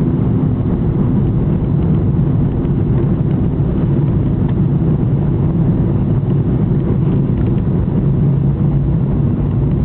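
Car engine running and road noise heard from inside the cabin while driving, a steady low drone with no sharp events.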